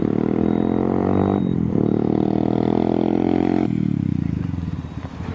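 Modified Suzuki Gixxer's single-cylinder engine revved through its exhaust and held at high revs, with a brief dip about a second and a half in. Past three and a half seconds the revs drop off and the sound fades.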